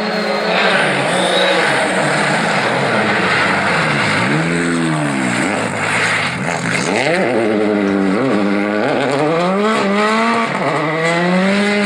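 Rally car engine running hard: the pitch swings up and down about four seconds in, then climbs in several quick rising sweeps with sharp drops between, as the car accelerates and changes gear, over a steady hiss.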